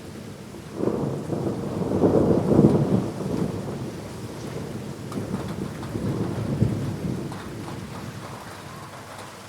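Thunder rumbling through steady rain during a thunderstorm: the rumble swells about a second in, peaks a second or two later, rolls on with a second swell and fades out near the end.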